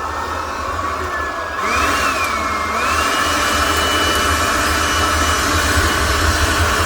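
A small motor-driven machine running steadily. About a second and a half in it gets louder, and its whine rises in pitch and then holds steady.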